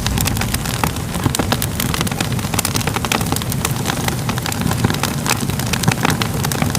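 Fire crackling: a steady low rumble dotted with frequent, irregular sharp pops and snaps.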